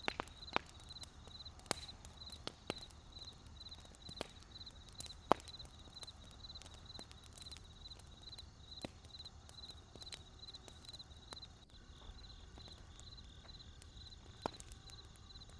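Wood campfire crackling: scattered sharp pops at irregular intervals, the loudest about five seconds in, over a low steady rumble. Behind it a high chirp repeats evenly, about four times a second, changing to a softer chirp near the end.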